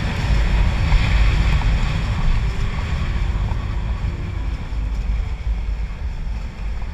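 Wind buffeting a helmet-mounted camera's built-in microphone on a moving Honda Click 125i scooter, a heavy low rumble with the scooter's engine faintly under it. It is loudest for the first two seconds, then eases a little.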